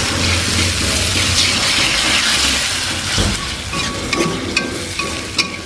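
Chili spice paste sizzling in a hot wok as it is stirred with a spatula, with a few sharp clicks of the spatula against the wok near the end.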